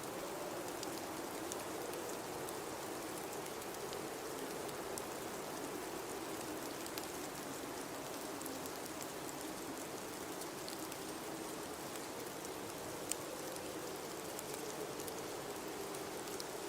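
Steady blizzard wind noise with a low, wavering howl, scattered faint ticks throughout and one sharper tick about thirteen seconds in.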